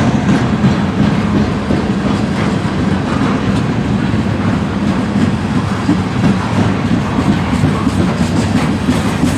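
Freight train of container flatcars rolling past at close range: a steady rumble of steel wheels on the rails, with constant fine clicking.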